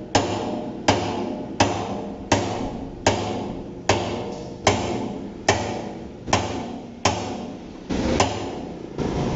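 Hammer blows cutting into a thick steel oil drum's 0.8–1.2 mm wall by hand, about a dozen strikes at a steady pace of a little over one a second. Each strike rings briefly in the hollow drum.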